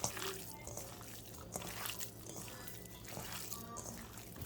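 Soft, wet, irregular squishing of seasoned raw chicken pieces being tossed and mixed in a bowl.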